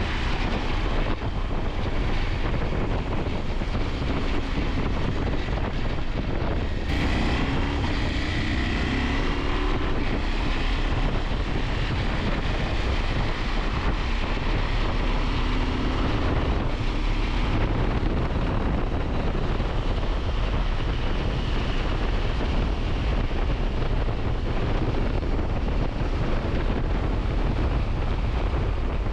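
Wind rushing over the camera microphone on a moving KTM 890 Adventure, with the bike's parallel-twin engine running underneath. The engine's pitch rises briefly a couple of times.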